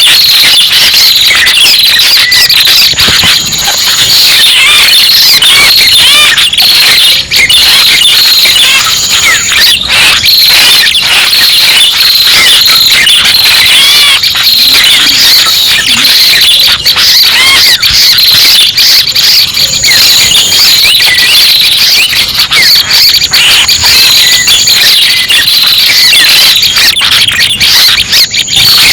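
Bird-luring recording of prenjak pala merah calls: loud, dense, rapid high chirps and twitters without a break, with a short steady high tone now and then.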